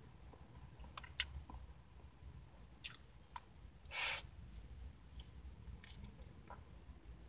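Close mouth sounds of a person eating a ham-topped glazed doughnut: a few lip smacks and clicks, a soft bite about four seconds in, then quiet chewing. A low steady hum runs underneath.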